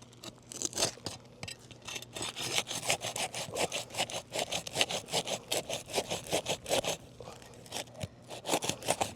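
A flat pry bar scraping back and forth under asphalt roof shingles, breaking their seal to lift them, in a quick run of rasping strokes about three or four a second that thins out near the end.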